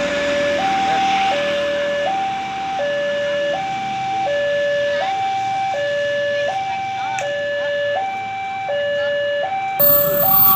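Railroad level-crossing electronic warning alarm sounding a steady two-tone signal, switching between a higher and a lower tone about every 0.7 s to warn that a train is coming. Near the end, a louder rush of noise from the arriving train joins it.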